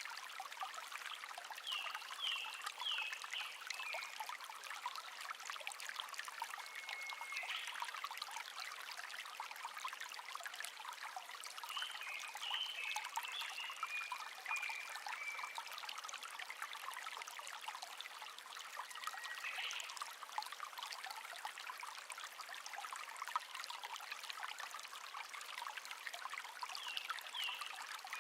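Small stream babbling and trickling steadily over stones. A songbird sings short chirping phrases over it every several seconds.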